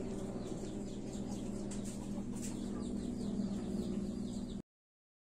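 Birds chirping in quick, short falling calls over a steady low drone, cutting off suddenly near the end.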